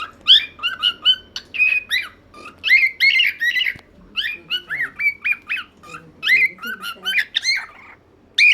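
Pet parrot calling without a break: a rapid run of short squawks and chirps, several a second, each bending up and down in pitch.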